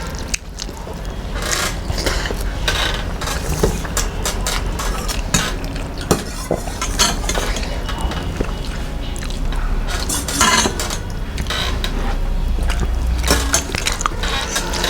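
Dishes and cutlery clinking and scraping at a meal, a scattering of short clicks with a steady low hum underneath.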